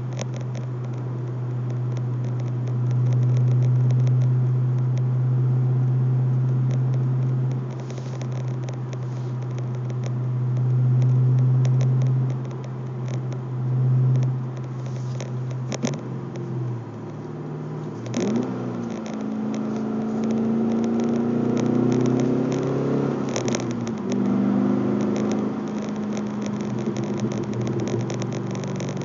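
Pontiac G8 GXP's 6.2-litre LS3 V8 through an SLP Loudmouth axle-back exhaust, heard inside the cabin through a cell phone on the console. A steady low exhaust drone while cruising, then a little past halfway the engine note climbs as the car accelerates, drops at a gear change and climbs again.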